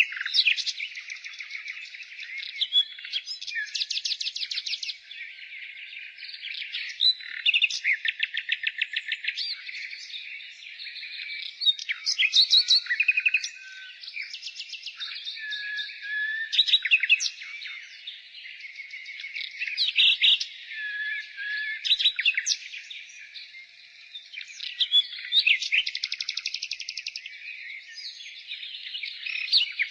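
Nightingale singing a varied song of phrases a few seconds long. It mixes fast trills of rapidly repeated notes, pure whistles and sharp chirps, with short pauses between phrases.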